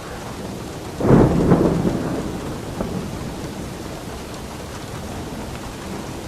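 Steady rain falling, with a thunderclap breaking about a second in and rumbling away over the next couple of seconds.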